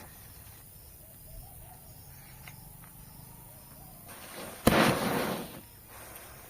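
A Diwali firecracker going off: a brief hiss builds, then a sudden sharp bang about three-quarters of the way through, trailing off in about a second of rushing noise.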